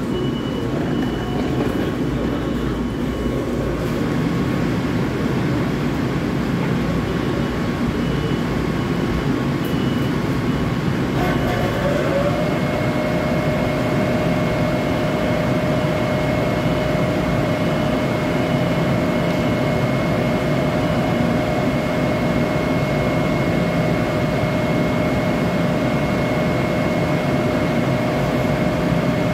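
LIRR M7 electric multiple-unit train standing at the platform, its onboard equipment running with a steady hum. About eleven seconds in, a whine starts up, rises briefly, then holds steady.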